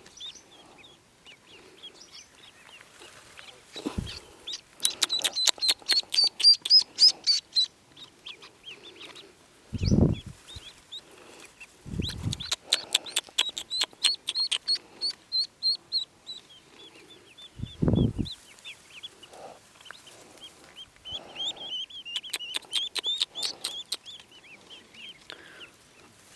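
Newly hatched ducklings peeping in fast high-pitched runs that come in several bouts. A few dull low thumps break in, about 10 and 18 seconds in the loudest.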